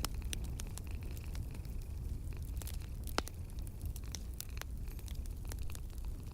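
Wood fire crackling in a fireplace: scattered sharp pops and snaps over a steady low rumble, with one louder pop about three seconds in.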